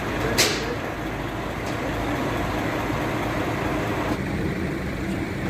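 A boom truck's engine running steadily, with a brief sharp sound about half a second in.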